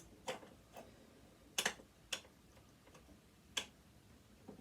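A hand tool clicking and tapping against the metal parts of a sewing machine being taken apart: about half a dozen sharp, irregular clicks, the loudest about a second and a half in.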